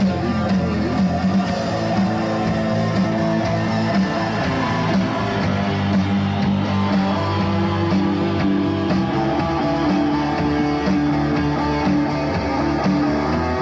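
Rock band playing an instrumental passage live, led by guitar with a steady backing.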